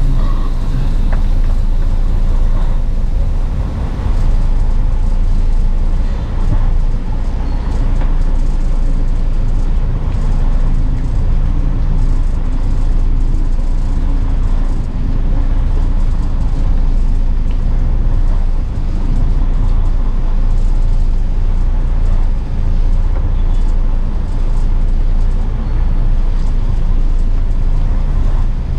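Semi truck's diesel engine running with a steady low drone, with road or cab noise over it.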